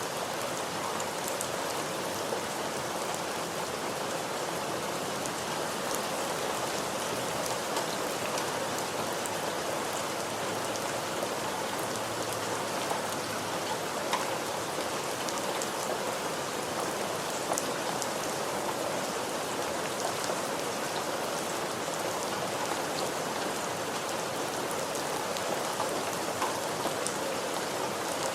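Steady rain falling, a dense even hiss with scattered close drops ticking.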